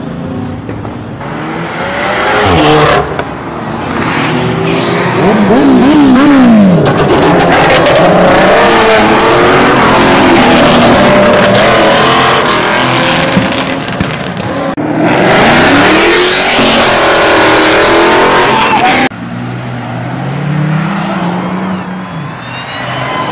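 Car engines revving hard and accelerating away, the engine pitch rising and falling repeatedly as they run through the gears. The sound is loud and cuts off abruptly about three-quarters of the way through.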